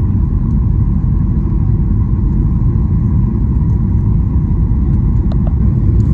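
Steady low rumble of jet engines and airflow inside the cabin of a Boeing 737-800 airliner, with a faint steady hum above it and a couple of faint clicks about five seconds in.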